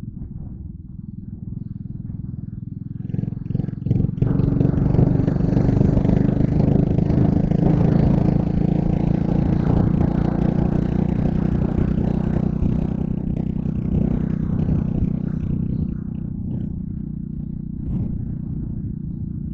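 Yamaha Crypton R underbone motorcycle's engine running on the road with wind and road noise. It gets louder about three seconds in and eases back down around sixteen seconds.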